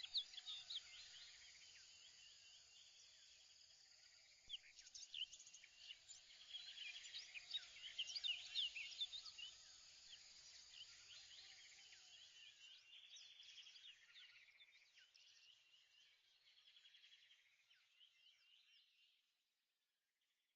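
Faint chorus of many small birds chirping and trilling, louder around the middle and fading out near the end.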